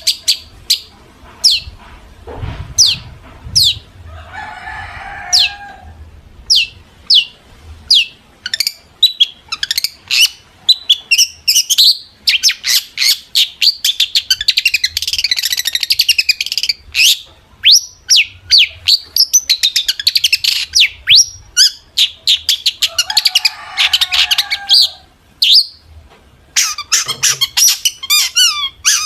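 Long-tailed shrike (cendet) singing: sharp, high down-slurred notes repeated about twice a second, building into fast chattering runs of varied mimicked notes. Harsh rasping calls come about 4 s in and again around 23 s.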